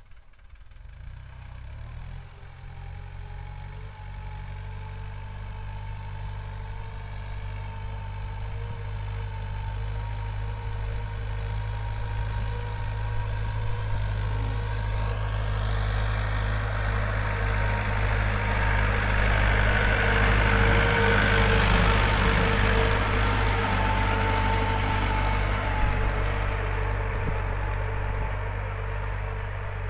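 Tractor engine running steadily with a low, even throb. It comes in about a second in and grows gradually louder over the next twenty seconds or so.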